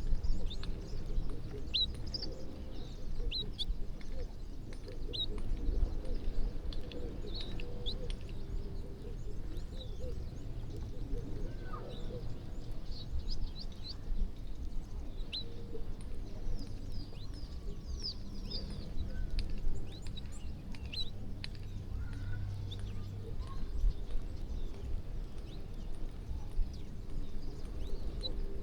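A flock of feeding birds chirping: many short, high chirps scattered throughout, over a steady low rumble.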